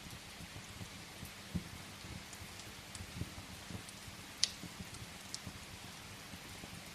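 Steady rain with a wood fire crackling: scattered sharp pops over an even rain hiss, the sharpest about four and a half seconds in, and a few soft low knocks.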